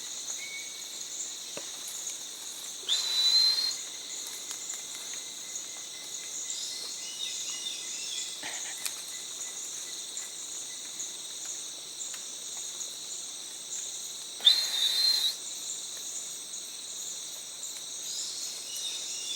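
Rainforest insects trilling in a steady high chorus. A loud call comes twice, about 3 and 14 seconds in: a quick rising whistle that breaks into about a second of harsh, noisy sound.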